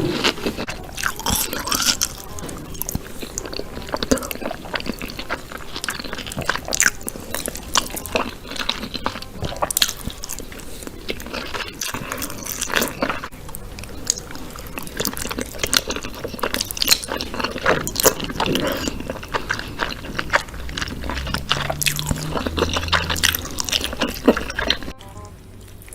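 Close-miked eating of whole chicken: a person biting and chewing, with wet squishing and many irregular small crackling clicks. The sound drops off sharply about a second before the end.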